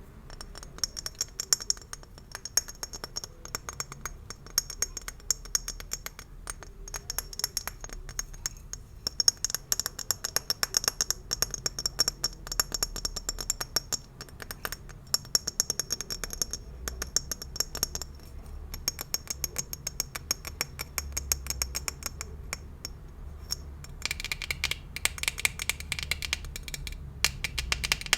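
Gift-wrap ribbon bows handled close to the microphone: a dense, rapid crinkling and scratching of many fine clicks, going on without pause.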